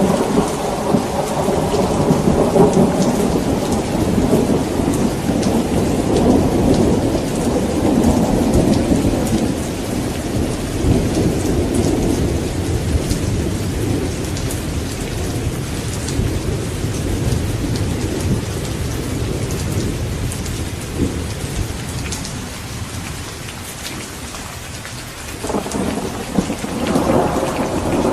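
Steady rain with rolling thunder: a long low rumble slowly dies away, and about three-quarters of the way through a new roll of thunder swells up.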